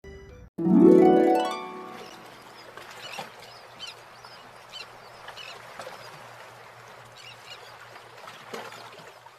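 A rising harp glissando about half a second in, ringing out and fading over about a second and a half. After it, a steady low hiss with brief, faint high chirps now and then.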